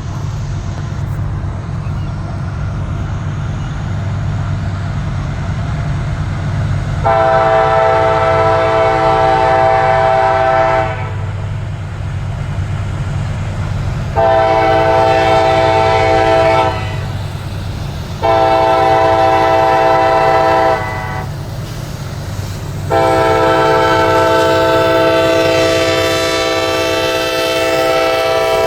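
Train horn sounding four long blasts at a crossing, the last held longest, over a steady low rumble from the train.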